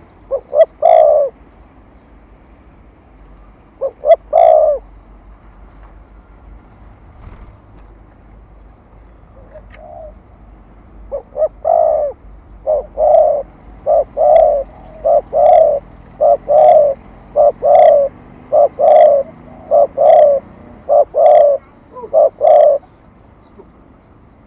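Spotted dove cooing in short repeated gù coos: two brief phrases early, a pause, then a long steady series of about one coo a second that stops shortly before the end.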